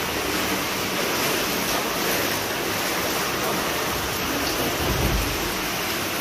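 Heavy rain pouring down in a steady hiss, with a brief low rumble about five seconds in.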